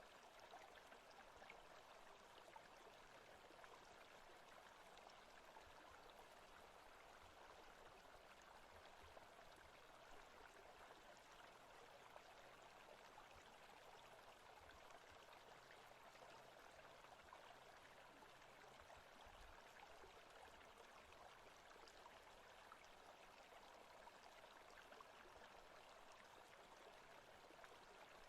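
Faint, steady running-water ambience of a forest stream, an even rush with no distinct events.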